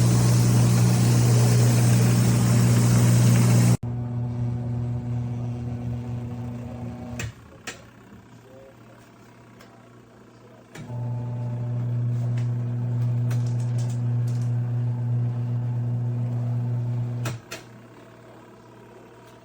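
Small portable twin-tub washing machine's electric motor humming, in run-and-pause stretches: it runs about three seconds, stops with light clicks, starts again for about six seconds and stops again, the on-off pattern of the wash cycle. The first few seconds are louder, a rushing noise over the hum.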